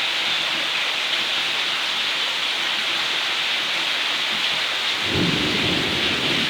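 Steady rain pattering down. A low rumble comes in about five seconds in and carries on underneath the rain.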